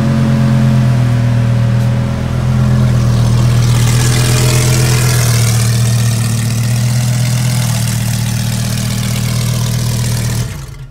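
Lamborghini Huracán's V10 engine idling steadily while the car creeps forward. The sound stops abruptly near the end.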